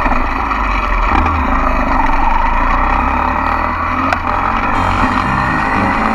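Mini dirt bike engine running while riding, with a steady rush of wind and road noise and one short sharp knock about four seconds in.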